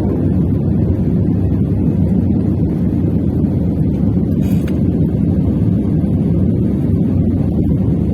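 Steady low rumble of a passenger plane's engines and air flow heard inside the cabin, with one short click about halfway through.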